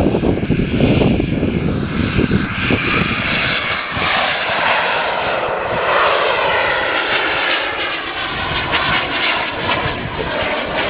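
Twin turbine jet engines of a quarter-scale radio-controlled A-10 Warthog whining in flight. A heavy low rumble in the first few seconds gives way to a whine that rises and falls in pitch as the jet passes.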